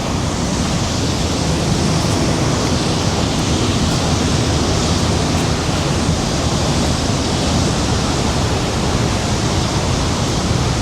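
Steady, loud rush of a large waterfall, the Rhine Falls, pouring water in an unbroken wall of noise.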